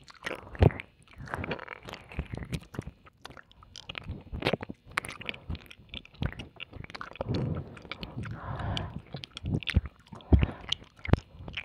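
Wet mouth sounds of ear-licking ASMR: licking, kissing and lip smacks close to the microphone, an irregular run of sharp clicks and short squelches.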